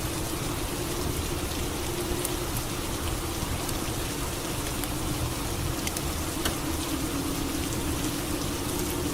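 Steady rain falling, with a few sharp drips. A low steady hum runs underneath.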